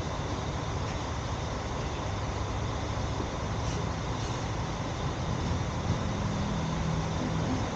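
A car driving through city traffic: steady road and engine noise, with a low engine hum growing stronger and rising a little in pitch in the second half.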